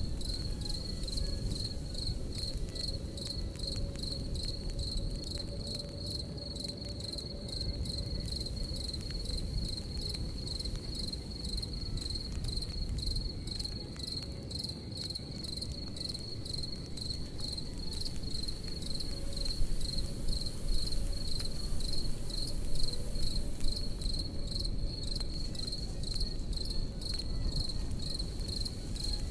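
Crickets chirping steadily in rapid, even pulses over the low rumble of a campfire, with scattered crackles and pops from the burning wood, a few louder pops from about 20 to 24 seconds in.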